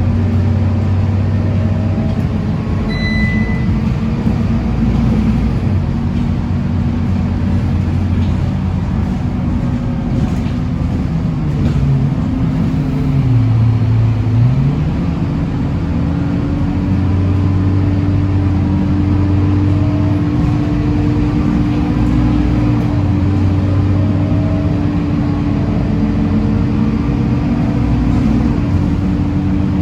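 Scania K230UB Euro 5 bus's diesel engine running under way, a steady hum whose note falls and rises again about halfway through. A steady whine sits above it from then on, and there is a short high beep about three seconds in.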